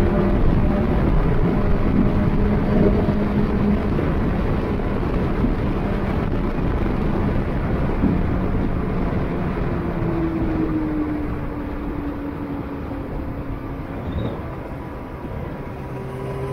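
Car engine running with heavy road and wind noise. The engine note eases slowly downward in the second half as the sound gets gradually quieter.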